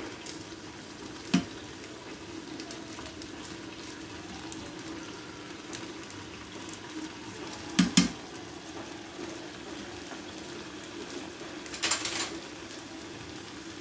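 Onion-garlic and carrot paste frying in oil in a karahi, a steady gentle sizzle, with a few sharp clicks: once about a second in, once at about eight seconds, and a brief cluster of taps near the end.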